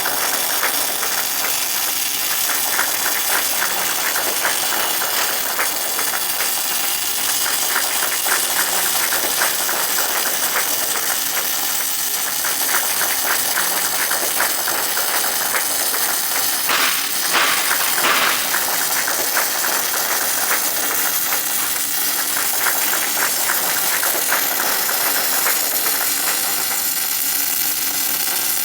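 MIG welding arc crackling steadily as a continuous bead is run, with two brief louder flare-ups a little past halfway.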